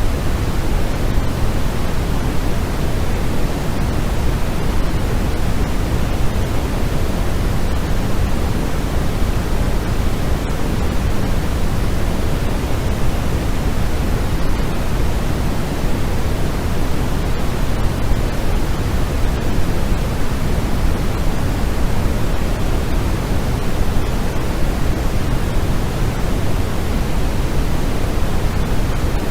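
Generated white noise for sleep: a steady, unchanging rush, heavier in the lows than in the highs.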